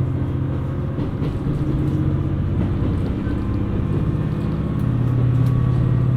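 KiHa 127 series diesel railcar running: a steady low engine drone with rumble, the engine note easing about a second in and swelling again near the end.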